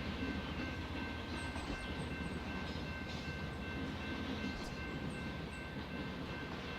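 Freight train rolling by with a steady rumble. Faint steady high tones are held over it throughout.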